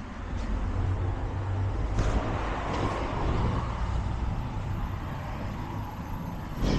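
Wind buffeting the microphone as a steady low rumble, with road traffic noise beneath, swelling a little about two to four seconds in.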